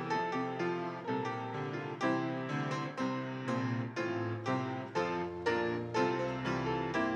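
Solo piano music: chords and melody played at a steady pulse, new notes struck about twice a second.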